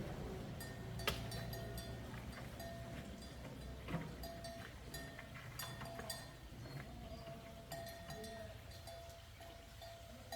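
Scattered light clinks and taps, with short ringing metallic tones, over a faint low rumble that dies away early on.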